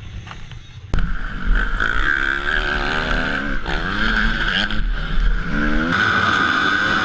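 Dirt bike engines revving up and down over a steady wash of noise, starting suddenly about a second in.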